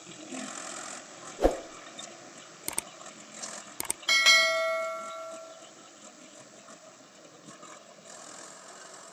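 A single metallic ring, loud at first and dying away over about a second and a half, after a knock and a few short clicks, over a faint steady engine noise.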